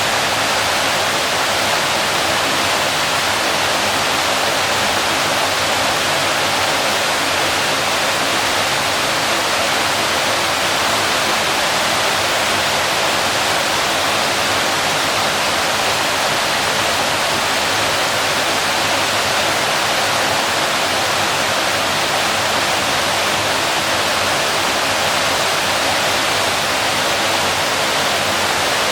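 Waterfall pouring steadily: a constant rushing hiss of falling water, without pauses or changes and with little deep rumble.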